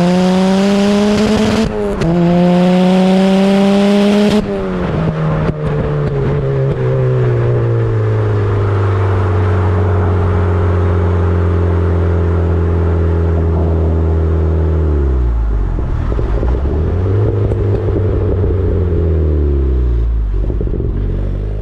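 Turbocharged Mazda MX-5's four-cylinder engine under hard acceleration, its pitch climbing, breaking briefly for an upshift about two seconds in and climbing again. About four seconds in the throttle comes off and the engine note drops, then holds a steadier note that slowly sinks, with a dip and recovery around fifteen seconds in.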